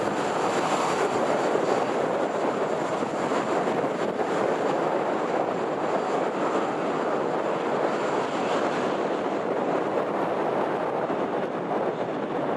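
Jet aircraft engines giving a loud, steady rush with a faint high whine. The whine fades out and the whole sound eases slowly as the aircraft moves away.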